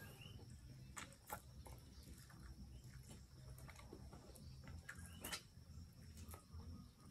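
Near silence broken by a few soft wet mouth clicks and smacks from chewing ripe durian flesh, the loudest about a second in and again past halfway.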